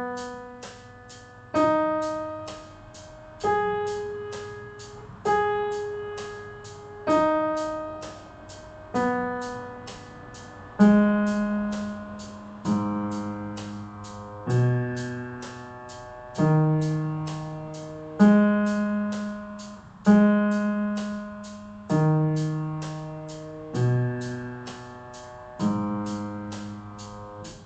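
Piano playing slow struck notes and chords, a new one about every two seconds, each ringing and fading, over a light, fast, even ticking.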